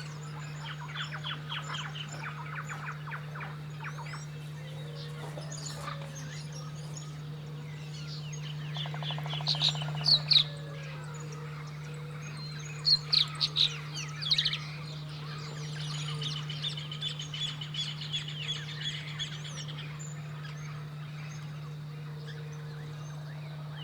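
Several birds chirping and calling in a series of short notes, with louder calls about ten seconds in and again a few seconds later, and a rapid trill after that, over a steady low hum.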